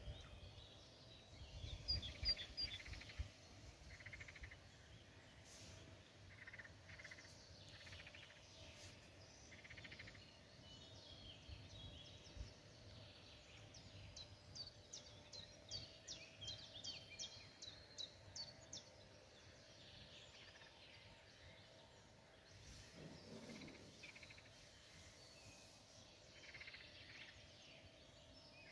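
Faint birdsong: scattered high chirps, and about halfway through a quick run of repeated high notes lasting about five seconds. A brief low rumble comes about two seconds in.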